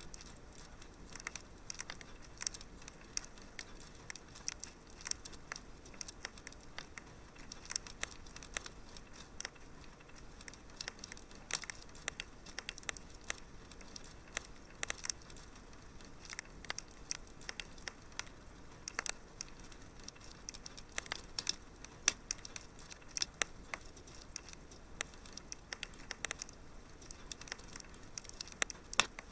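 Wood fire crackling in a fireplace: irregular small pops and snaps, several a second, over a soft steady hiss.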